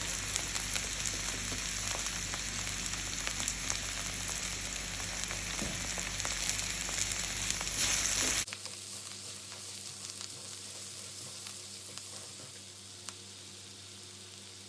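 Sliced vegetables sizzling in hot oil in a wide kadai, with light ticks of a spatula stirring them. About eight seconds in, the sound cuts abruptly to a quieter sizzle.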